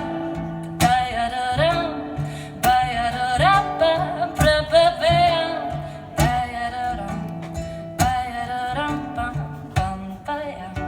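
Baritone ukulele strummed in chords about every two seconds, with a wordless sung melody sliding over it in a jazz-folk song.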